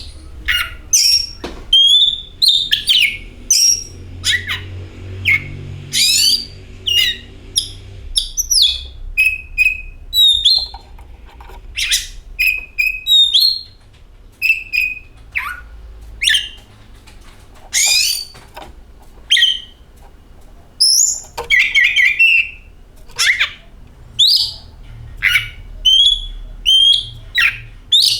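Oriental magpie-robin singing: a lively run of short, varied whistles and sharp chirps, some sliding quickly up or down in pitch, repeated one after another, over a faint low hum.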